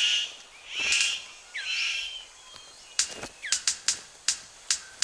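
Male superb bird of paradise in courtship display: a few harsh, buzzy calls with quick pitch sweeps, then, from about three seconds in, a rapid run of sharp clicks, several a second, mixed with short chirps.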